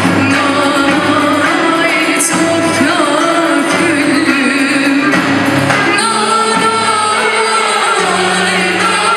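A Turkish folk song (türkü) sung by a woman with melismatic, ornamented phrasing, accompanied by a Turkish folk ensemble of violins, ouds, kanuns, clarinet and percussion.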